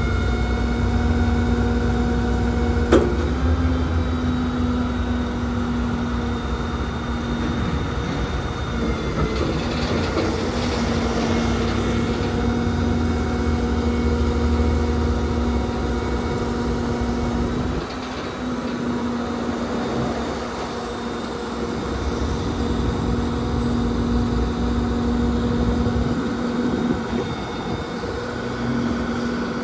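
Diesel engine of a Hino grapple truck running steadily, a low rumble with a steady whine over it and a single sharp click about three seconds in. The rumble eases a little about two-thirds through and again near the end.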